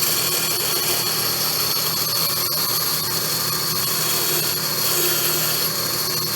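Bandsaw running steadily with no cut under way, a constant motor hum and a high whine over a steady rushing hiss.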